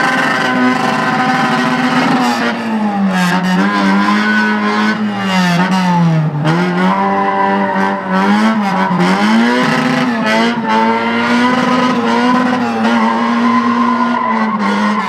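Oval racing car engine running hard, its pitch dipping and climbing back again three times as it lifts off and accelerates, with tyres skidding.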